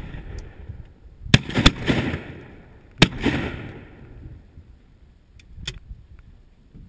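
Three shotgun blasts at ducks: two close together, then a third about a second and a half later, each trailing off in a rolling echo.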